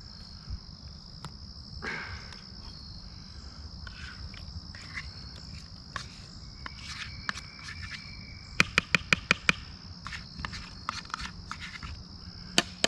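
A spoon knocked sharply against a bowl about eight times in quick succession, a little over halfway through, shaking sour cream off, with a few lighter clicks of utensils before it. Crickets chirr steadily and high-pitched throughout.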